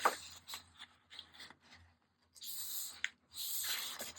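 Papers and journal pages being handled on a craft table: a few light taps and clicks, then twice in the second half a spell of paper sliding and rustling.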